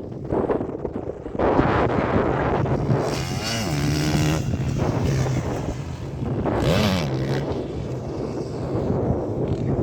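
Motocross dirt bike engines revving as the bikes ride past, the engine pitch swinging up and down about three and a half seconds in and again near seven seconds, with wind buffeting the microphone.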